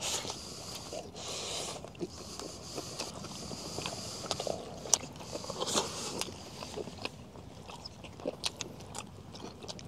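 Chewing and biting into skewered grilled meat (shorlog), with scattered small clicks and crunches.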